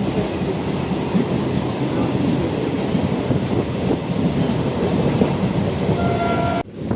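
A MEMU electric passenger train running along the track, heard from on board: steady rumble with wheel clatter, breaking off abruptly near the end.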